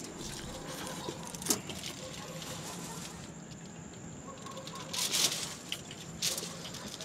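Eating noises: a few short crackling rustles, about a second and a half in and then twice near the end, over a steady faint hiss with a thin high whine.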